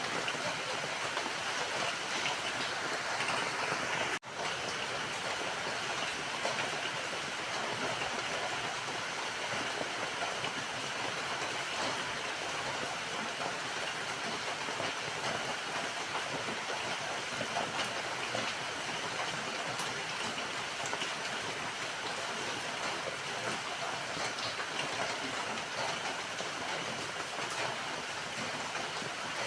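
Steady rain falling, an even hiss with scattered drop ticks. The sound cuts out for an instant about four seconds in.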